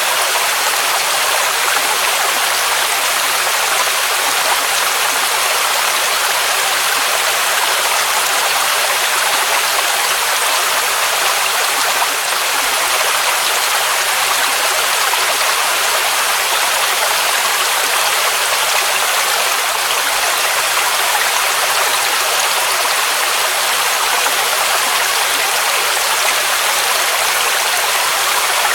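Waterfall: water of a mountain cascade rushing and splashing in a steady, unbroken hiss, with little low rumble.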